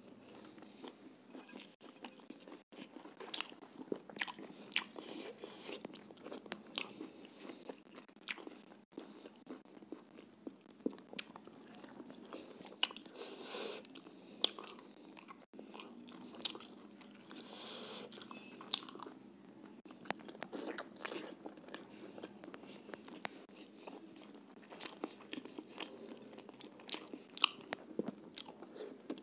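A man chewing a mouthful of chicken and roti, a run of irregular mouth clicks and smacks.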